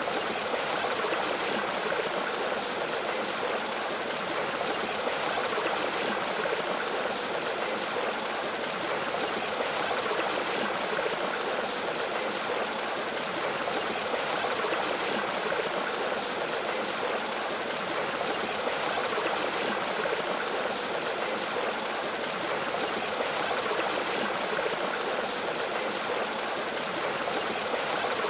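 Mountain stream running over rocks and a small waterfall: a steady, even rush of flowing water.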